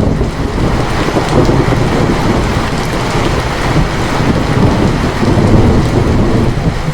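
Heavy rain hissing steadily, with a loud rolling rumble of thunder that starts suddenly and goes on for several seconds, easing briefly near the end.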